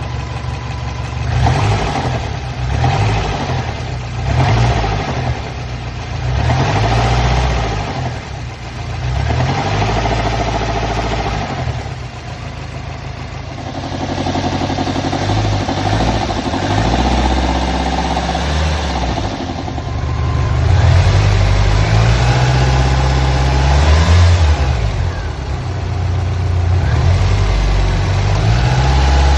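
Subaru Impreza GDB's EJ20 boxer engine being blipped repeatedly for about twelve seconds, then running more steadily. It makes an intermittent abnormal noise of unknown cause that comes back after revving past 3,000 rpm; the owner first suspected a bearing knock (metal blow) but found no metal particles in the oil.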